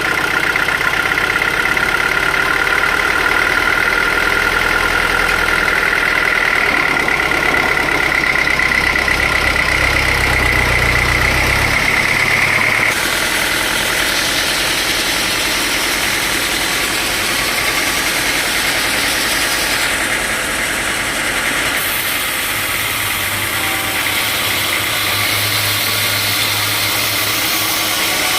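Sawmill machinery running steadily, with a high whine for the first half that stops abruptly about halfway through and gives way to a rougher, noisier running sound.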